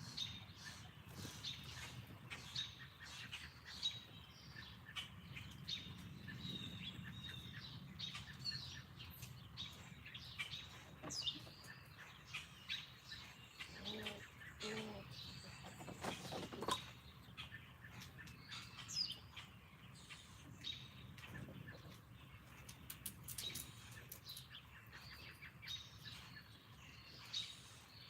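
Songbirds chirping with many short high notes throughout, over a steady low background hum. Two lower calls come in quick succession about halfway through.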